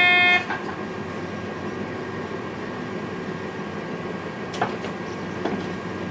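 Cab of an NS VIRM double-deck electric train running along the track: a steady rumble with a couple of short sharp clicks late on. It opens with a loud electronic beep lasting about half a second, a cab signalling tone.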